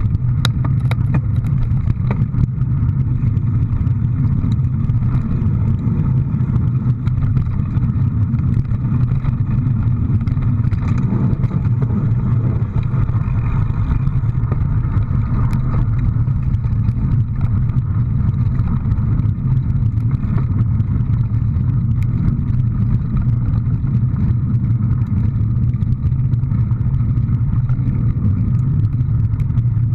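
A vehicle running steadily with a continuous low drone, with frequent small clicks and rattles throughout.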